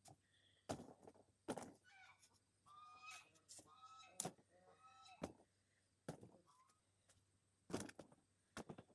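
Faint snaps and rustles of pepper plants being handled as peppers are picked, with several sharp clicks spread through. A few short pitched calls come in the middle.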